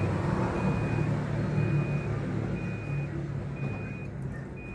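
A vehicle's reversing alarm beeping about once a second with a single high tone, over the low rumble of a running engine that slowly fades.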